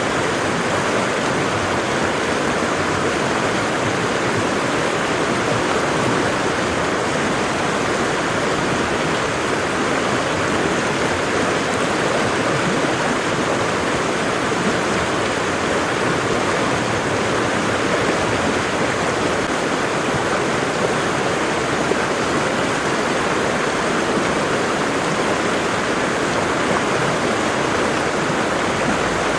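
Waterfall: water falling and rushing, a steady, even roar.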